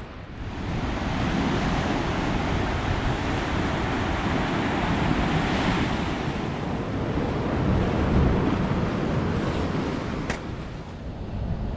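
Sea waves breaking and washing on the shore under strong wind buffeting the microphone. The noise swells up about half a second in and stays loud, with a single sharp click near the end.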